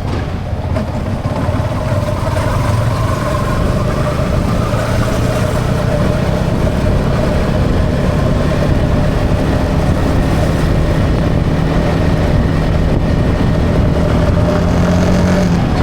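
Yamaha XSR 155's single-cylinder engine running under way on the road, mixed with road and wind noise. It builds over the first couple of seconds, then holds steady.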